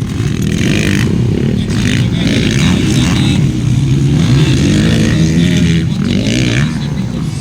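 Motocross motorcycle engines revving on the track, their pitch rising and falling again and again as the riders work the throttle.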